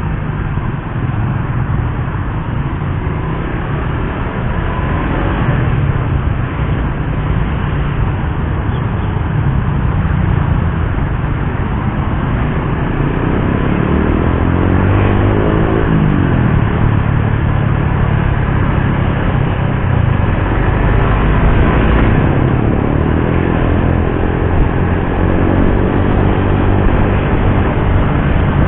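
Suzuki GSX-R150's single-cylinder engine running under way with a steady rumble and road noise. The engine note rises and falls in pitch around the middle.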